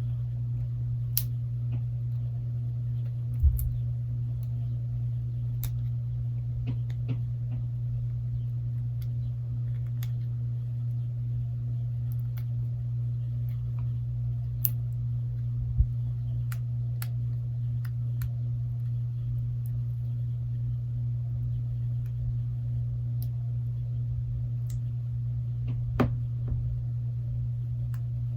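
Scattered small clicks and taps of small phone parts and tools being handled during a Galaxy Note 8 parts transfer, with a few sharper knocks, over a steady low hum.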